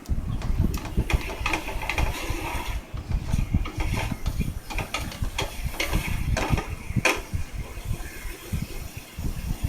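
A spoon stirring chicken pieces through masala in a cooking pot: irregular scraping and knocking against the pot, with sharp clinks now and then.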